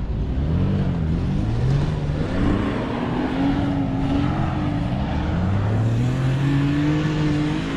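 Off-road 4x4's engine revving hard under load as it drives up a sand dune. Its pitch climbs, dips and holds, then climbs again near the end.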